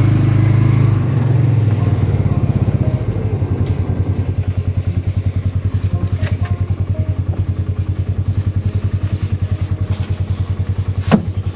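Small vehicle engine running. About three seconds in it settles into an even, putting idle, and near the end there is a sharp knock.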